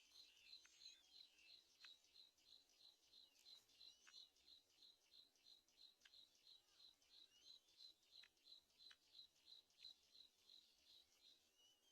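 Faint, rapid chirps repeated evenly, about three or four a second, with a few fainter gliding calls over them.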